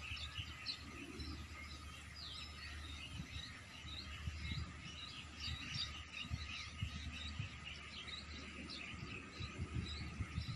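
Many small birds chirping and twittering throughout, over a low outdoor rumble with a few soft low thumps.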